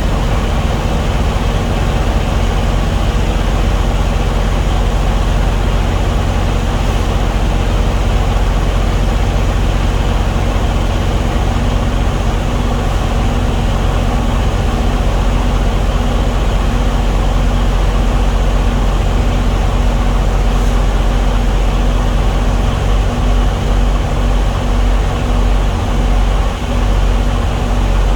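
An engine running steadily with a low, even rumble. In the last few seconds the low end starts to pulse unevenly.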